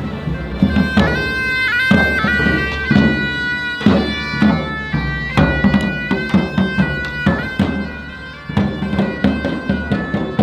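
Music: a bagpipe melody with held notes over regular drum beats.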